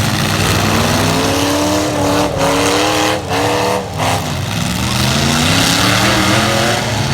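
Several light-truck engines revving hard in a demolition derby heat. Their pitch climbs and falls, with a few brief drops in level around the middle.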